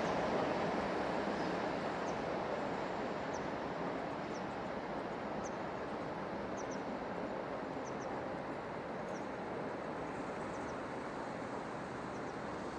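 Freight train's rumble fading slowly as it moves off out of sight, with small birds giving short high chirps now and then.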